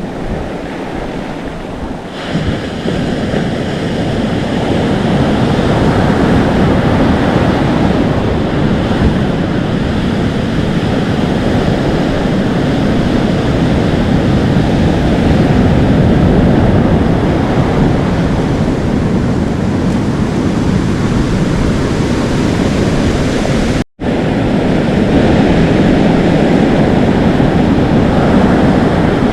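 Atlantic Ocean surf washing and foaming continuously on the shore, with wind buffeting the microphone. It gets louder about two seconds in, and the sound cuts out completely for a moment about 24 seconds in.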